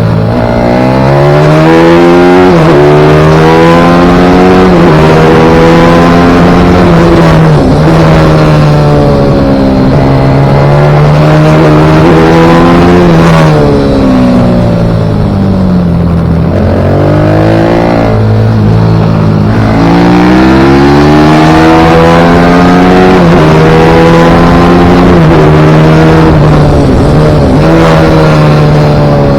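Pit bike engine running hard on track, revving up and then dropping sharply again and again as the rider shifts gears, brakes and accelerates out of corners.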